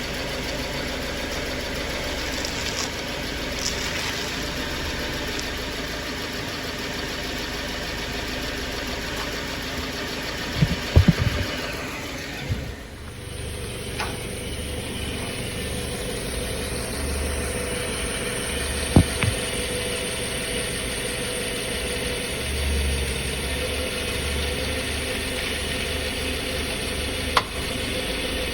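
Subaru XV engine idling steadily, with a few sharp clacks from the electric power steering: a quick cluster about a third of the way in, then single ones later. The clack comes only when the steering wheel is turned to the left.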